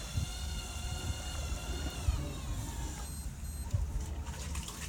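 A steady high motor whine, several tones at once, that drops in pitch about two seconds in and dies away about a second later, over a low steady rumble.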